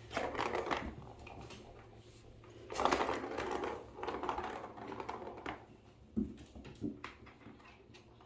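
Plastic cat toy clattering and rattling as kittens bat at it: two spells of rapid clicking, one at the start and a longer one from about three seconds in, then a few single knocks.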